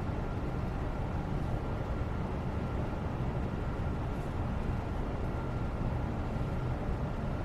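Steady background white noise, a low, even rumbling hiss at constant level with a faint steady tone running through it.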